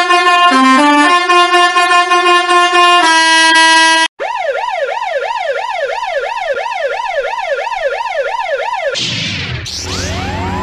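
An 8-bit chiptune melody of stepped electronic notes, which cuts off about four seconds in. Then an ambulance siren in a fast yelp, rising and falling about three times a second. Near the end a sweeping electronic whoosh starts, with rising tones over a low rumble.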